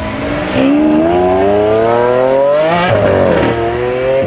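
Tuned drag-race car engine accelerating hard, its note rising steadily, dropping sharply at an upshift about three seconds in, then climbing again in the next gear.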